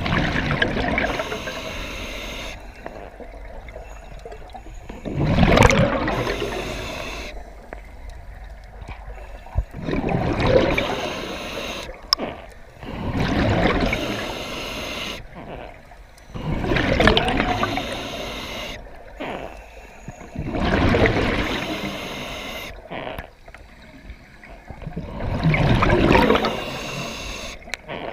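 Scuba diver breathing through a regulator: rushing, gurgling bursts of exhaled bubbles about every four seconds, with quieter hiss between breaths.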